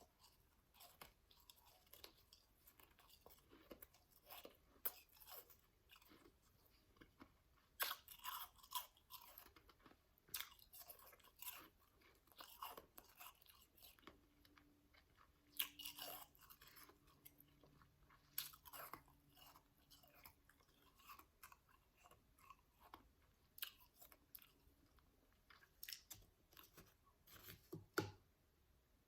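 Close-up chewing of soft, powdery ice: irregular crisp crunches, with a few louder bites scattered among quieter chewing.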